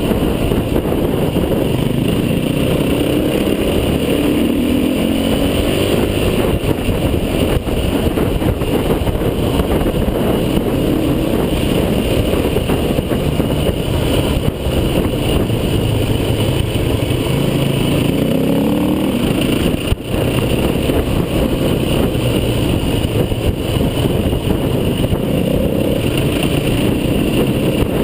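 Off-road vehicle engine running under load, its pitch rising about four seconds in and again shortly before the twenty-second mark, over constant rumbling noise.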